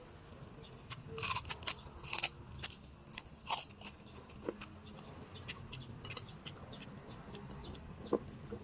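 Close-up eating sounds: a person chewing and biting food with wet mouth clicks and crunches, a quick cluster in the first few seconds, then sparser.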